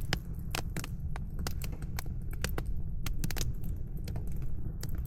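Freshly lit campfire crackling, with many sharp irregular pops and snaps from the burning kindling over a steady low rumble.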